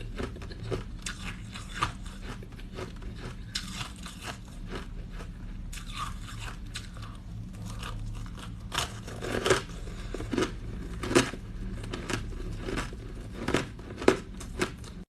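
Ice being bitten and chewed: an irregular run of sharp crunches close to the microphone, the loudest in the second half.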